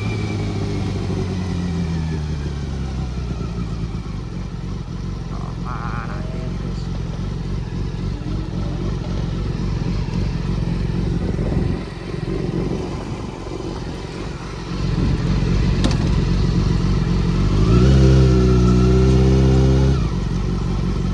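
Honda CBR400RR's 400 cc inline-four engine while riding. The revs fall in the first few seconds, and near the end the engine comes on hard and loud for a couple of seconds before dropping off.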